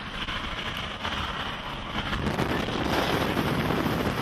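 Strong storm wind rushing and buffeting the microphone, swelling louder about two seconds in.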